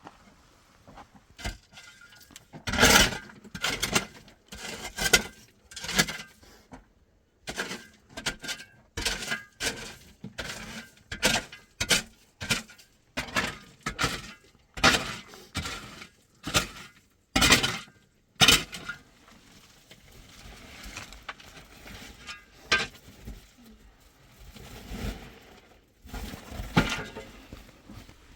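A series of sharp knocks and clinks of hard objects striking, about one or two a second, easing into quieter scraping in the middle before a few more strikes near the end.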